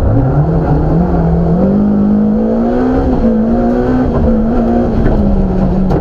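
BMW M3 rally car's engine heard from inside the car: the revs dip low, then climb steadily over a couple of seconds under acceleration and hold, easing off a little near the end.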